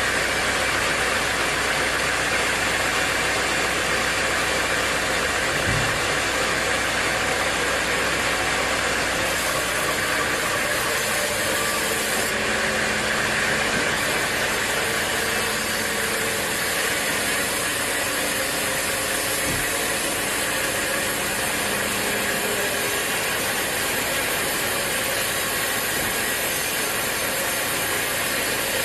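A sawmill saw and its drive motor running steadily with a constant mechanical din, while mahogany wood is sawn.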